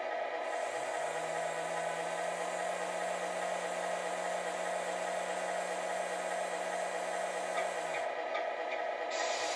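Steady electric whirring of a 1/14 Tamiya Volvo FH16 8x4 tow truck RC model running, with a steady low motor hum that starts about a second in and stops about eight seconds in.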